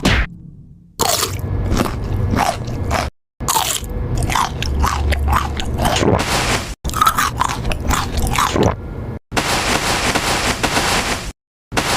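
Close-up eating sounds: biting and crunchy chewing, in several short segments cut together, each breaking off suddenly into a brief silence.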